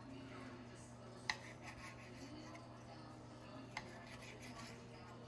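Chef's knife slicing through raw tilapia fillets, the blade knocking sharply on a marble cutting board twice, about two and a half seconds apart, over a steady low hum.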